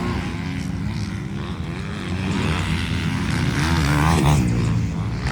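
Motocross bikes' engines running and revving, the pitch rising and falling a couple of times in the middle.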